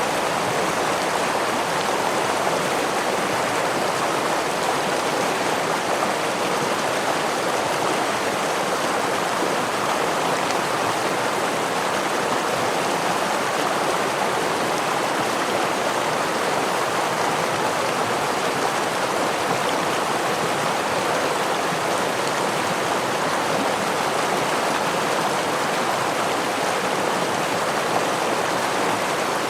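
Forest stream with a small waterfall, water rushing and splashing in a steady, even stream of sound with no breaks or changes.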